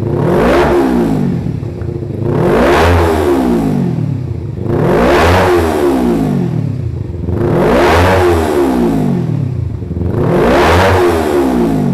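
Kawasaki Ninja 250FI parallel-twin engine breathing through a ProSpeed Shark Black aftermarket exhaust, revved five times in a steady rhythm. Each blip rises sharply in pitch and falls back to idle, about every two and a half seconds.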